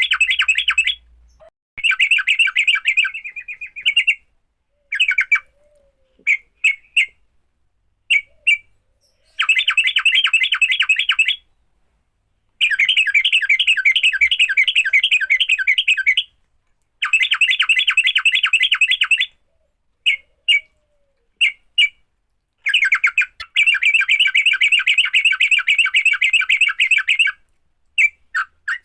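Yellow-vented bulbul (trucukan) singing its fast, chattering fighting song: runs of rapid repeated notes lasting two to four seconds each, with short single and double notes between them.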